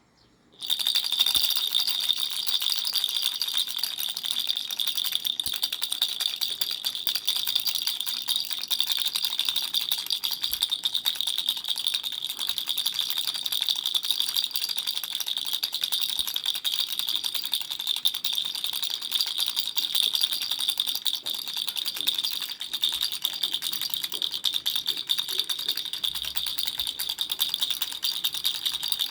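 Baby rattle shaken steadily: a dense, continuous rattling with a bright high ringing running through it. It starts suddenly about half a second in.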